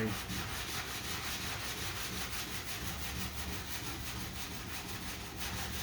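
Sanding block with sandpaper rubbing back and forth by hand over lacquer primer on a bondo-filled car body panel, a steady run of quick rasping strokes. This is blocking the primer to level the repair and show up low spots.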